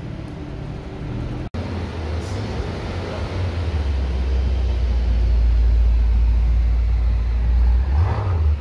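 Mercedes-AMG GT 63 S four-door's twin-turbo V8 running at low speed in traffic as it rolls past, a deep steady note that grows louder as it nears, with a short blip of revs near the end.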